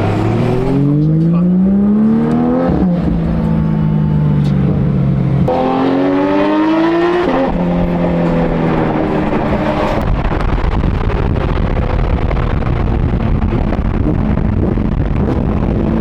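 Ferrari V8 engine accelerating hard through the gears: the pitch climbs and drops sharply at each upshift, twice, then holds. After about ten seconds it settles into a steadier, rougher sound with more road noise.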